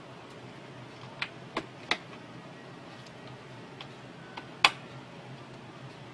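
A few sharp clicks and taps from small parts being handled during a printer repair: three close together about a second in, and one louder click a little later, over a steady low hiss.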